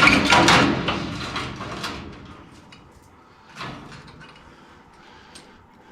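Sheet-metal furnace parts scraping and sliding against each other for about two seconds, fading out, followed by a few light knocks.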